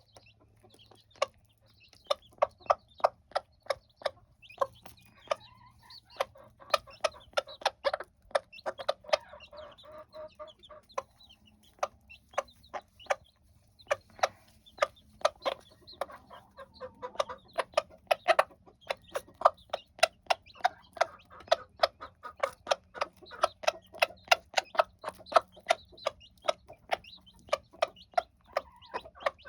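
A hen clucking steadily over a dense run of sharp pecking taps, several a second, as she breaks up food.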